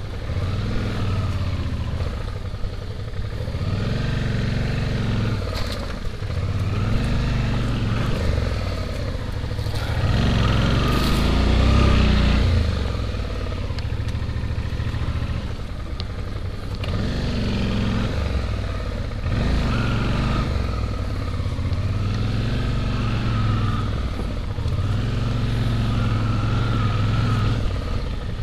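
Suzuki V-Strom motorcycle's V-twin engine running under way, revving up and easing off in waves every few seconds, loudest about ten to twelve seconds in.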